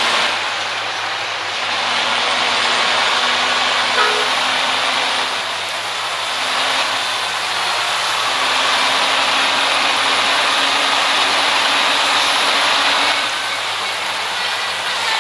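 Steady noise of a heavy vehicle on the move, swelling and easing every few seconds, with a low hum underneath.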